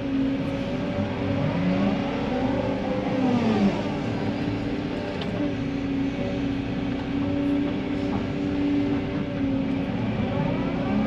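Tracked excavator's diesel engine running steadily under load. Its hydraulics whine in glides that rise and fall as the machine works, twice: a few seconds in and again near the end.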